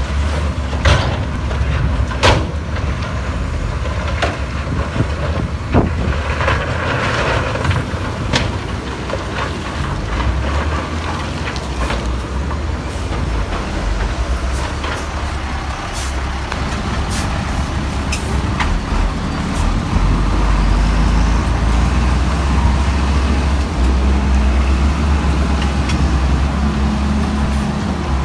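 Heavy diesel earthmoving machinery running with a deep, steady engine rumble, broken by scattered sharp metallic clanks and knocks. The engine grows louder about twenty seconds in.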